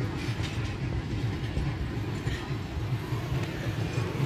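Pakistan Railways passenger train coaches rolling along the track: a steady low rumble with faint scattered wheel clatter.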